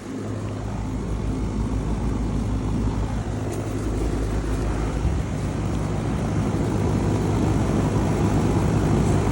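Central air conditioner condenser units running: a steady compressor hum with fan noise, growing steadily louder as a just-started 2010 Carrier Comfort Series unit comes up to speed.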